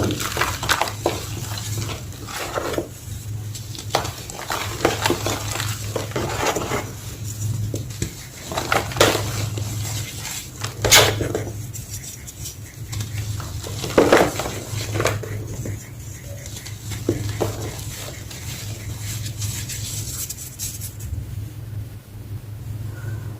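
Small block of gym chalk (magnesium carbonate) being crushed, giving a run of irregular crunches and crackles, the sharpest about 11 and 14 seconds in, over a steady low hum.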